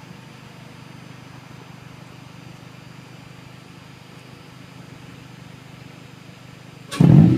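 2012 Honda Civic Si's 2.4-litre four-cylinder, fitted with a Vibrant aftermarket exhaust, RBC intake manifold and Injen cold air intake, idling steadily, then revved sharply near the end.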